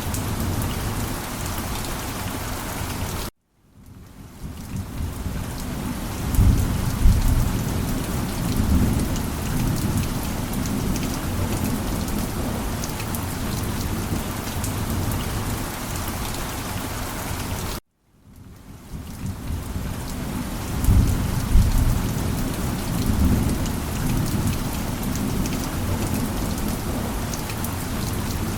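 Heavy rain falling steadily, with low rolling thunder rumbles twice. Each time, the sound cuts out abruptly for a split second, fades back in, and the thunder follows a few seconds later.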